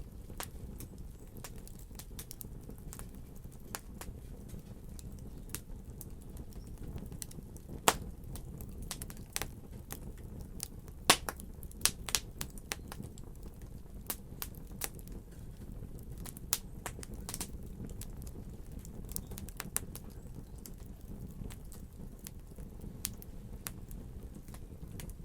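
Fire crackling: irregular sharp pops and snaps over a steady low rumble, with a few louder pops in the middle.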